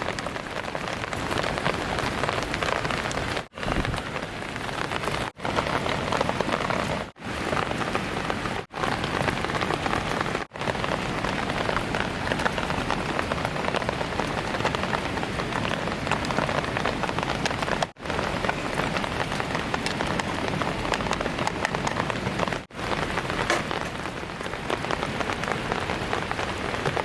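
Heavy rain falling steadily, a dense even patter, broken for an instant several times where the sound drops out briefly.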